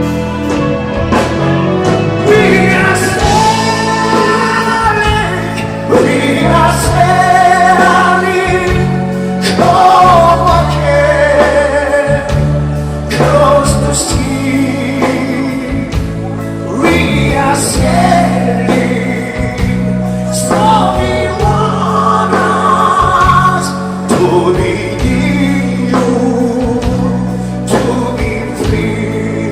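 A song performed live: a singing voice over a band, with a steady bass line underneath.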